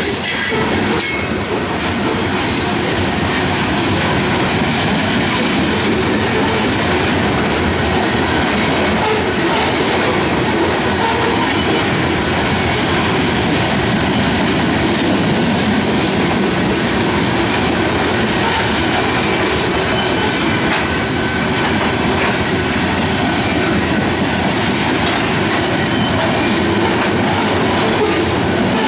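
Covered hopper cars of a freight train rolling past close by: a steady rumble of steel wheels on rail, with recurring clicks as the wheelsets pass over rail joints.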